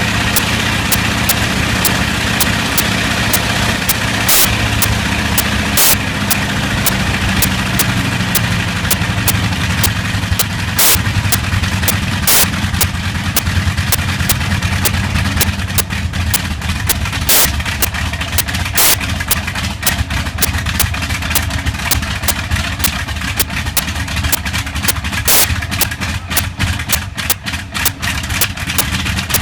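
Bristol Hercules 14-cylinder sleeve-valve radial aero engine running at low speed, with irregular sharp cracks that come more often in the second half: a slight misfire.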